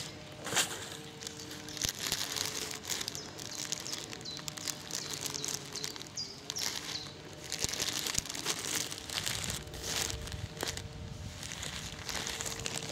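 Packaging crinkling and rustling in irregular bursts as a stuffed-toy parcel is handled and unwrapped.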